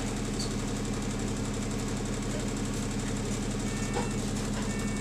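London double-decker bus's diesel engine idling steadily with a rattle, heard from inside the bus.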